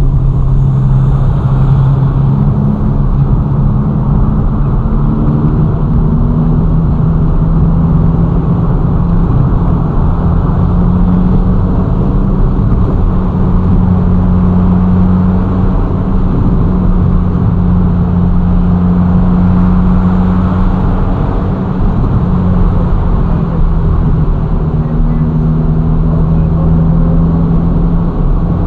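Ferrari Roma's twin-turbo V8 pulling steadily at cruise, its note drifting up and down a little with the throttle, over steady road noise.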